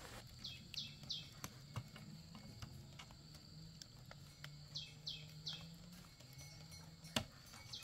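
A small bird calling in two quick runs of three high, falling chirps, then one more near the end. Scattered faint knocks, one sharper knock shortly before the end, and a low steady hum lie underneath.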